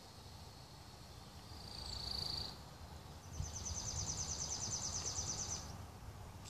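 Wind on the microphone with a bird calling: one high, steady note for about a second, then a fast, even high trill for about two seconds.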